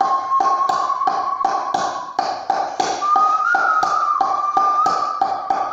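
A person whistling a melody in long, slowly sliding notes, over a steady tapping beat of about three taps a second.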